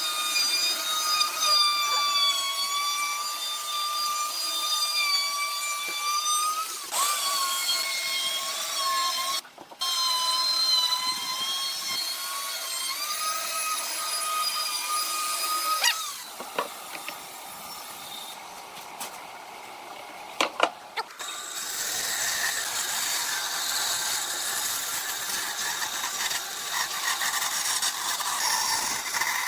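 A small power tool's motor running with a steady high whine, which stops about halfway through. After a few clicks comes a rougher, noisier sound of the tool working wood.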